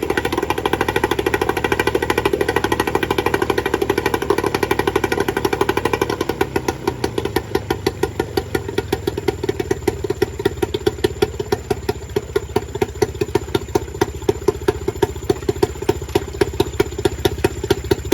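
British Seagull two-stroke outboard motor running after its failed coil was replaced with one from a donor engine. It runs fast for about six seconds, then drops to a slower, plainly separate beat of firing strokes.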